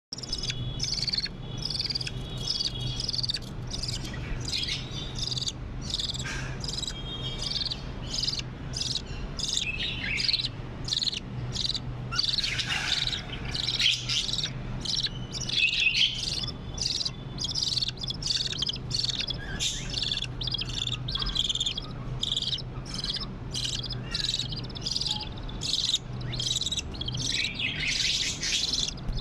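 Budgerigars chirping and chattering continuously, many quick high chirps overlapping, over a steady low hum.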